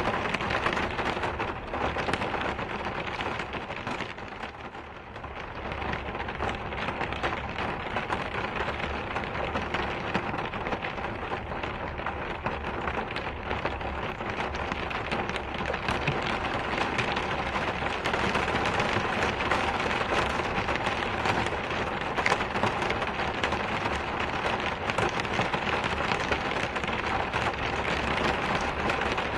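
Steady heavy rain falling, a dense hiss of countless individual drops; it eases briefly about five seconds in, then carries on as before.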